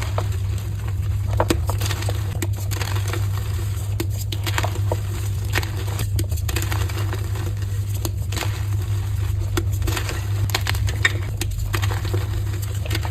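Dyed soft gym chalk being crushed, giving a dense run of irregular dry crackles and crumbling, with a steady low hum underneath.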